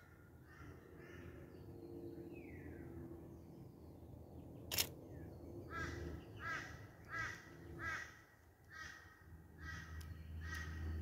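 A bird calling outdoors: a run of about seven short calls in a row, beginning about six seconds in. Midway, a single sharp camera shutter click from stills being taken.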